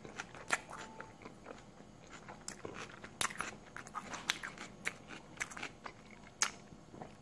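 Chewing a bite of coney dog (a hot dog in a soft bun with onions and chilies): irregular small wet clicks and crunches, with no words.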